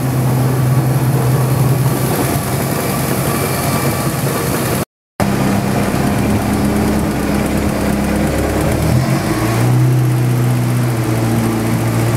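Chevrolet Opala straight-six engine idling steadily through a loud exhaust. There is a brief gap of silence about five seconds in, and the engine's note shifts about nine seconds in.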